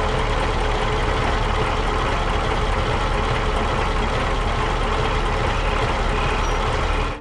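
Heavy truck engine running steadily with a low, even rumble, fading out at the very end.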